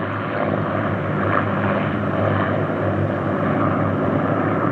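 Supermarine Spitfires' V12 piston engines droning steadily overhead, growing slightly louder.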